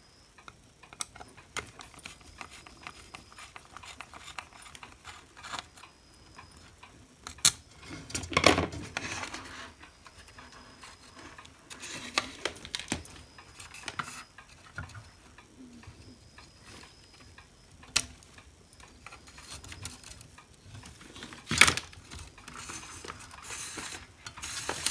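Irregular clicks, taps and short scraping rattles of tools and small plastic parts being worked by hand while a hot air gun handle is pried apart, with a few louder scrapes spread through the stretch.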